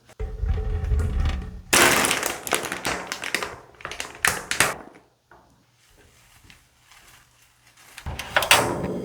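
Kitchen preparation sounds: a run of taps, knocks and rustling as utensils and ingredients are handled, quiet for a few seconds in the middle before the noise picks up again near the end.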